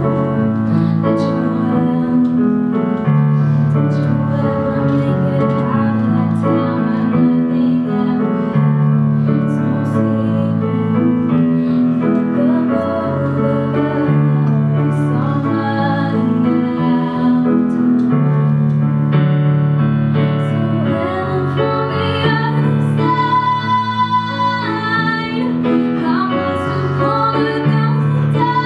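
A female voice singing a song over piano chords.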